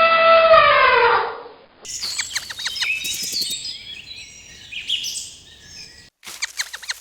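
Spliced animal calls: a loud, high, held call that falls in pitch and ends about a second in, then a few seconds of high bird chirping and peeping, and near the end a new clip of rapid sharp clicking calls begins.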